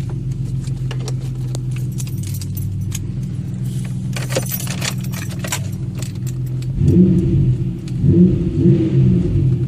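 2005 Pontiac Aztek's 3.4-litre V6 running through a custom dual exhaust with a steady low drone. It grows louder in two swells near the end as the revs come up. Light metallic clicking and jingling sound over it in the first half.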